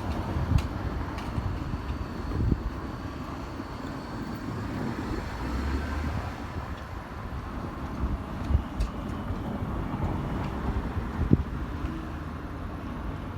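JR E217 series electric commuter train rolling slowly: a low, steady rumble with a handful of sharp clunks.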